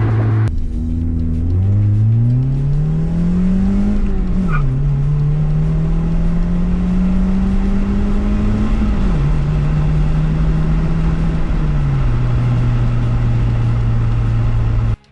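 Muffler-deleted Hyundai Tiburon exhaust under way. The engine pitch climbs through a gear for about four seconds, drops sharply at an upshift, then holds a steady drone with two more step-downs in pitch.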